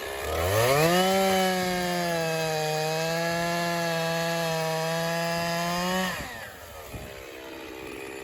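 Echo CS-501P 50cc two-stroke chainsaw revving up from idle and held at full throttle for about five seconds, cutting through a white pine log. Its pitch sags slightly under the load, then it drops back to idle after about six seconds.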